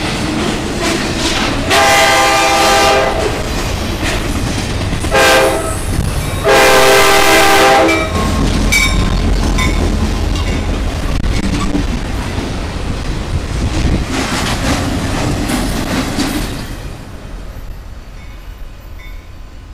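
Diesel locomotive horn sounding three blasts, long, short, long, over the steady rumble and wheel clatter of passing trains. The rumble fades away near the end as the trains move off.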